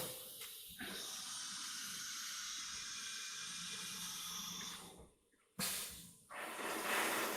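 A CNC router running, heard as a steady hiss. The hiss drops out for about half a second around five seconds in, then returns.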